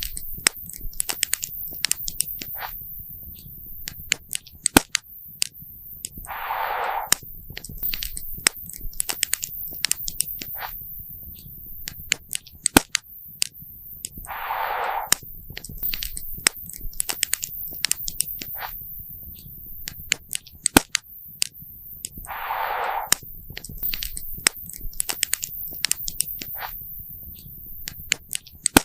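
Wood fire crackling, with irregular sharp pops and snaps over a low steady rumble. About every eight seconds a brief puff of hissing noise comes in, four times in all.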